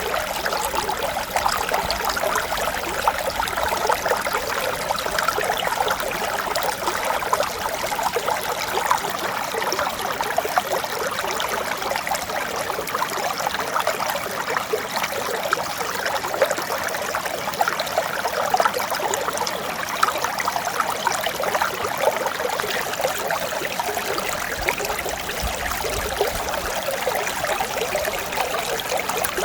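Mountain stream running over rocks: a steady babbling and trickling of water, even in level throughout.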